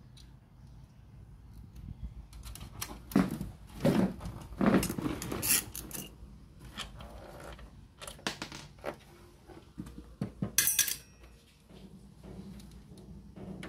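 Clinks, taps and clatter of small hard metal objects being handled, in two busy bursts in the first and second halves.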